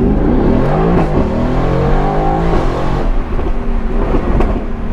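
Mercedes-AMG GT R Pro's twin-turbo V8 through a straight-piped FI exhaust, heard from inside the cabin while pulling hard. The engine note rises in pitch in several runs, with breaks where it drops and climbs again.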